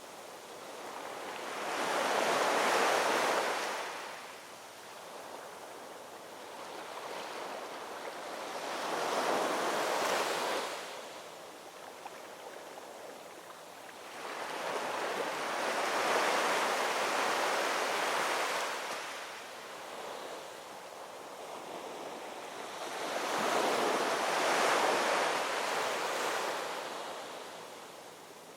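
Ocean waves rolling in and washing ashore, four slow surges of surf that each build and fade over several seconds.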